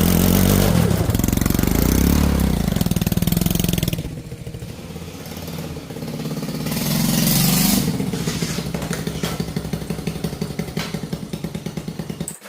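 Small motorcycle engine of a homemade two-wheel-drive motorbike running and revving, easing off about four seconds in and revving up again, then running at low revs with an even putter.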